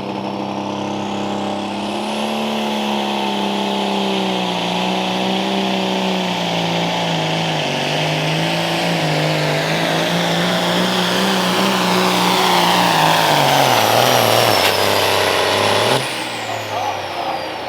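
Turbocharged super stock pulling tractor's engine at full power under load during a pull, its pitch wavering as the weight transfer bites, over a high turbo whistle. The engine note sinks as the tractor bogs down near the end of the run, then cuts off suddenly.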